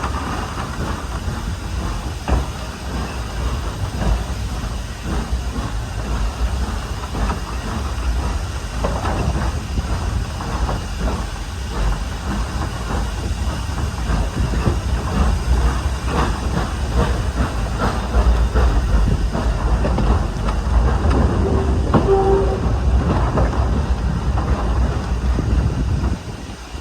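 Standard-gauge steam train running on the line: a steady low rumble with irregular clicks and knocks from the wheels and rail joints. It grows louder in the second half and drops off just before the end.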